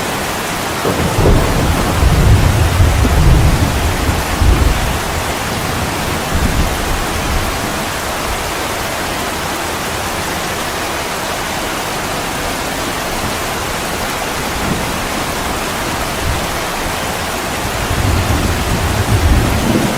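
Steady heavy rain with thunder. A low rumble swells about a second in and fades by about five seconds, and another builds near the end.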